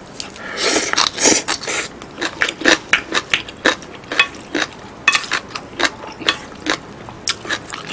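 Close-miked chewing of a mouthful of green onion kimchi (pa-kimchi): an irregular run of wet mouth clicks and smacks, a few a second.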